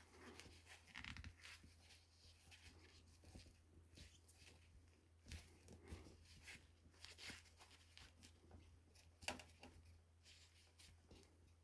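Near silence: faint scattered clicks and rustles of small parts being handled, with a sharper click about nine seconds in, over a steady low hum.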